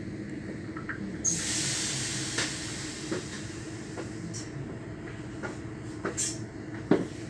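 Passenger train carriage heard from inside: a steady low running hum. About a second in, a sudden loud hiss starts and fades out over a second or so, and a few sharp knocks sound near the end.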